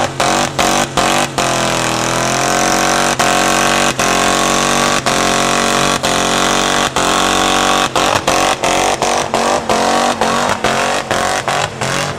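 V8 tow truck engine held at high revs in a burnout, its note stuttering with rapid regular cut-outs, several a second, at the start and again from about eight seconds in. In the middle it rises and then holds a steadier high note.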